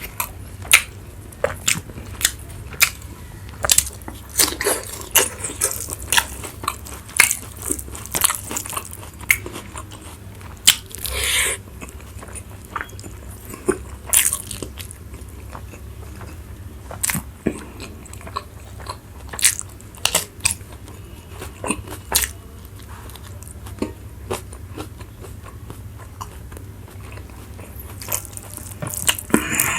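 Close-miked eating: crunchy bites and chewing, with many irregular sharp crunches and wet mouth clicks over a steady low hum.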